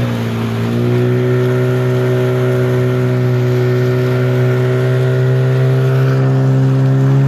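Motorboat engine running steadily under load. Its pitch dips briefly at the start, recovers, and edges up near the end.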